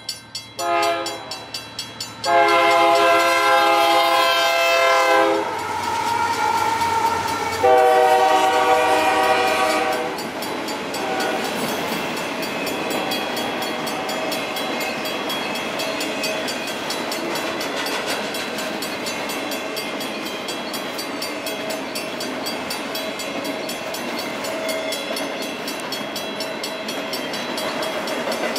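Locomotive air horn sounding a few short blasts, then two long blasts with a short break between them. After that, a train passes over the crossing with a steady noise of wheels on rails.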